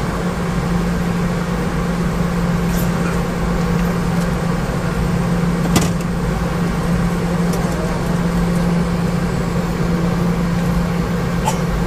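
Steady cabin noise inside a Boeing 717-200 airliner: a constant drone of its rear-mounted Rolls-Royce BR715 engines and air, with a steady low hum and a few faint clicks, the sharpest about six seconds in.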